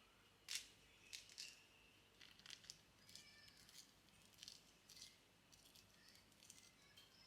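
Faint, scattered light clicks and small clinks, about a dozen over several seconds, the sharpest about half a second in.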